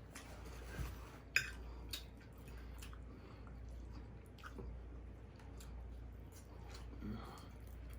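Quiet chewing during eating, with scattered soft mouth clicks and smacks; one sharper click about a second and a half in.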